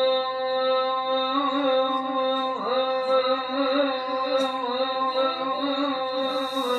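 A male qari's voice in melodic Quranic recitation, holding one long steady note and then moving into wavering, ornamented turns of pitch about a second and a half in.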